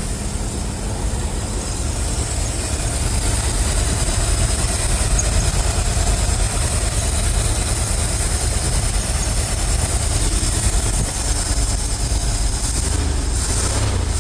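Ford F-350 dump truck's carbureted engine idling steadily, running a little rich.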